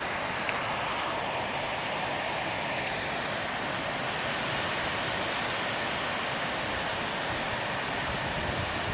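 Steady rushing wash of ocean surf breaking along the shore.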